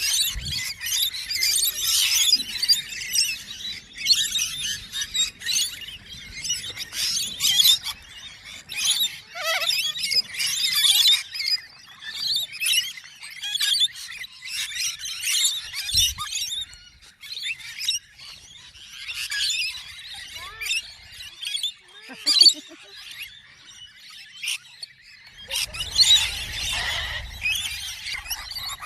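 Many small birds chirping at once in a dense, high-pitched chatter, with short lulls and a louder stretch near the end.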